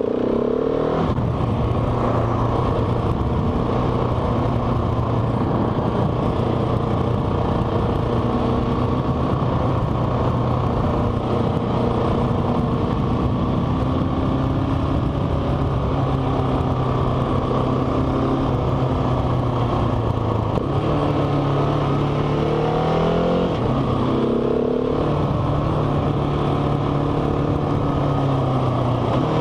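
Motorcycle engine running while riding, a steady drone that rises and falls in pitch a few times in the second half as the rider revs and changes gear.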